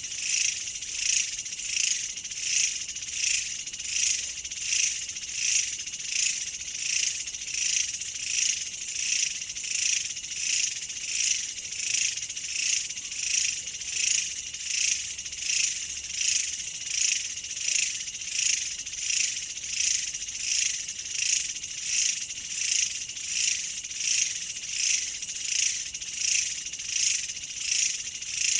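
A chorus of insects trilling, high-pitched and pulsing evenly about three times every two seconds.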